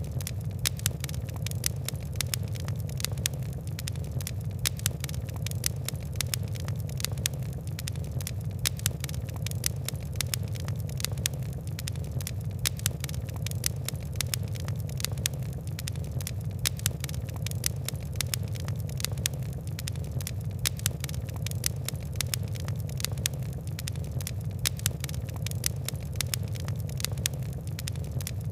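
Fire crackling: many quick, irregular pops and ticks over a steady low rumble of burning.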